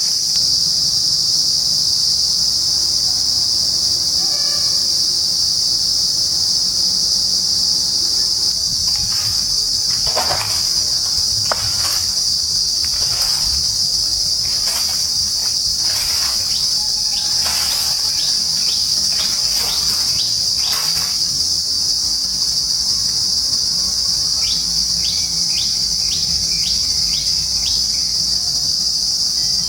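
A steady, high-pitched drone from insects in the trees. Scattered bird calls come through in the middle, with a quick run of short chirps near the end.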